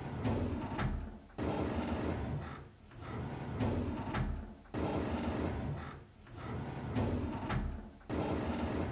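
A drawer sliding open, a rumbling scrape, the same take looped about every three and a half seconds so that it is heard nearly three times, each time starting suddenly and fading away.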